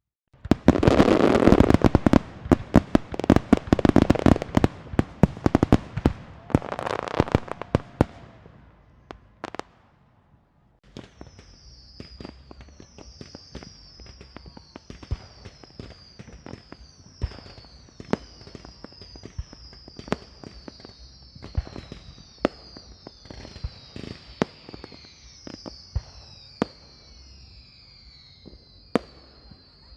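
A string of firecrackers going off in a fast, dense crackle for about eight seconds, then dying away. After a brief lull, scattered single pops and cracks continue, along with a repeating series of high, falling whistles.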